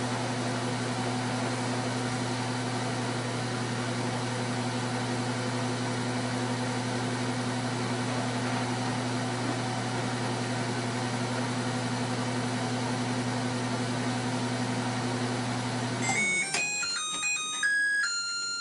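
LG Smart Inverter microwave oven running with a steady low hum, which stops about sixteen seconds in as the cycle ends. A short tune of quick high beeps follows, the end-of-cycle signal.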